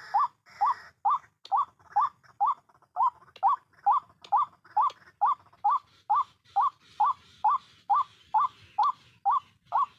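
White-breasted waterhen calls: a steady series of short, rising 'kruak' notes, about two a second, repeated without a break.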